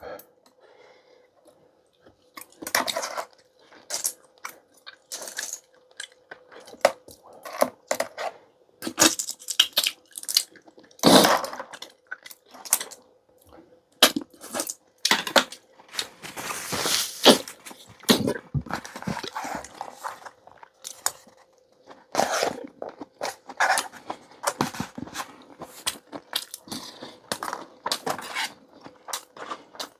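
Close-miked eating of clam and seaweed noodle soup: irregular chewing and slurping, with sharp clicks of utensils, bowl and clam shells, and one longer slurp a little past the middle.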